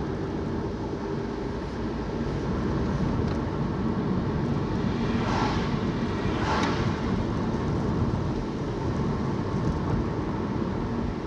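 Car cabin noise while driving: steady engine and tyre rumble, with two brief swells of noise about halfway through.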